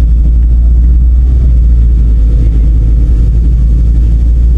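Car being driven, heard from inside: a loud, steady low rumble of engine and road noise.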